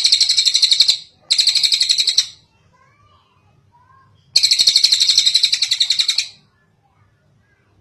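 Tengkek cililin bird calling in three bouts of rapid, high, repeated notes, about ten a second: one already under way that stops about a second in, a short one just after, and a longer one from about four and a half to six and a half seconds in.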